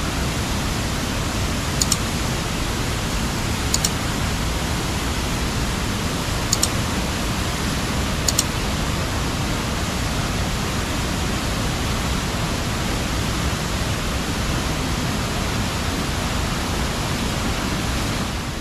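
Steady, loud rushing of running water, such as a forest stream or waterfall. Four brief high chirps come about two seconds apart in the first half.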